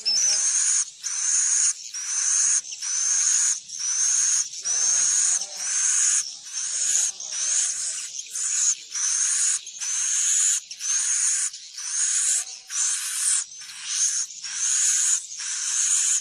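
Edible-nest swiftlet calls, a high chirring twitter repeated evenly about once every 0.8 seconds in a steady loop. It is the walet lure call played in swiftlet houses to draw the birds in to roost and nest.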